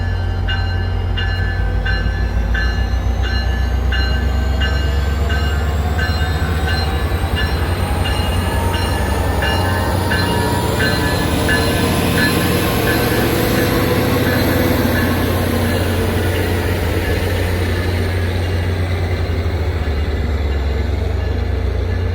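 A train running past with a steady heavy rumble, and a faint high squeal that slowly rises and falls through the middle. A bell-like ding repeats about twice a second over the first several seconds, then fades out.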